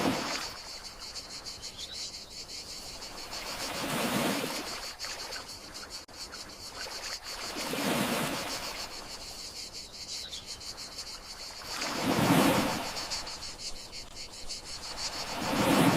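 Gentle sea waves washing in, one swell about every four seconds, over a steady high chirring of crickets.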